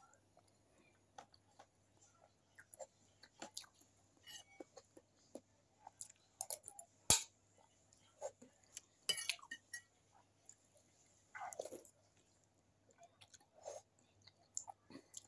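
Close-up chewing and mouth sounds of a person eating rice and instant noodles, with scattered clinks of a metal spoon on a metal plate. The sharpest click comes about seven seconds in.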